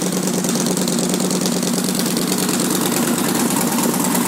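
2011 Victory Vegas's 106 cubic inch fuel-injected V-twin idling steadily, nice and loud through its aftermarket exhaust.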